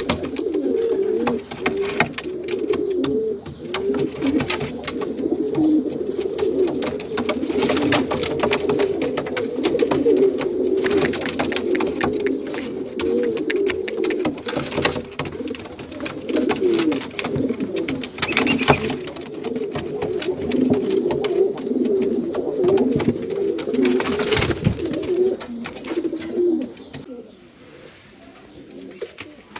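Domestic kesh pigeons cooing continuously, many coos overlapping, typical of courtship while the birds are being paired. There are scattered light clicks and taps throughout, and the cooing dies away about three seconds before the end.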